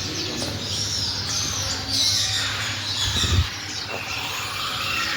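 Many cage birds chirping and calling at once in an aviary, with a brief low thump about three seconds in.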